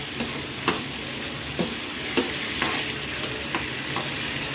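Beef liver pieces in a thick spice masala sizzling in a frying pan as the gravy cooks down, with a steady hiss. A metal spatula stirs them, knocking lightly against the pan several times.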